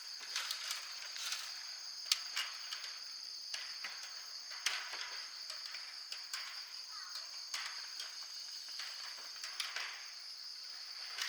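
Steady high-pitched insect drone, with scattered light clicks and rustles over it.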